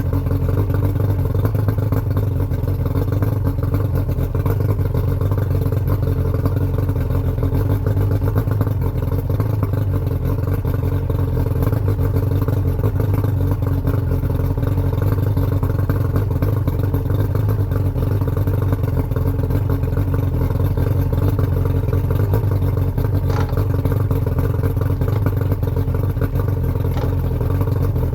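Yamaha 115 hp V4 two-stroke outboard motor with oil-injection autolube running at a steady speed, warming up after a cold start.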